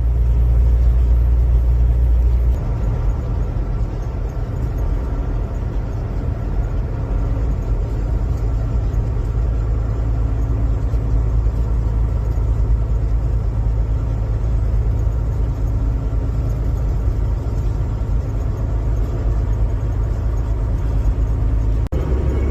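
A car driving, with a steady low rumble of engine and road noise. The deepest rumble eases a little about two and a half seconds in, and there is a brief dip near the end.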